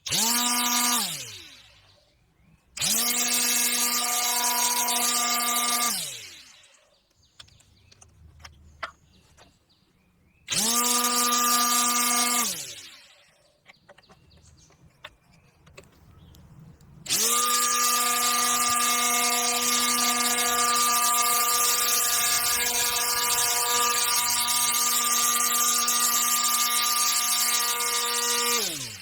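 775 DC motor of a homemade PVC-pipe grass trimmer switched on and off four times: each time it spins up to a steady whine and winds down, falling in pitch, when released. The last run holds steady for about twelve seconds.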